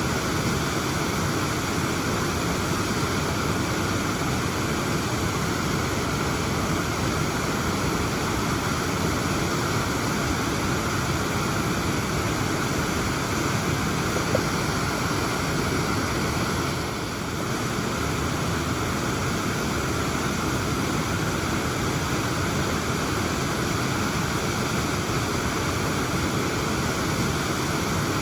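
Waterfall cascading, a steady, dense rush of falling water, easing slightly for a moment about two-thirds of the way through.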